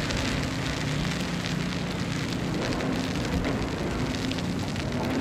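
Snowstorm street ambience: a steady crackling hiss of snow and wind with scattered faint ticks, over a low steady hum.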